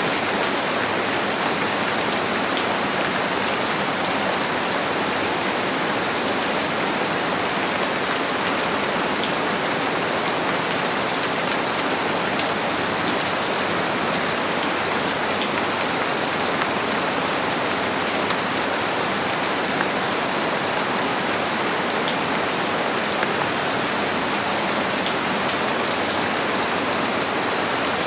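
Steady rain falling and pattering on a surface, a dense even hiss with fine drop ticks throughout.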